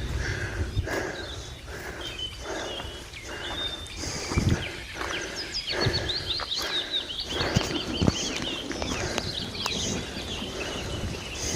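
Footsteps of someone walking at a steady pace, about one step every 0.7 s, with small birds chirping over them, most busily in the middle of the stretch.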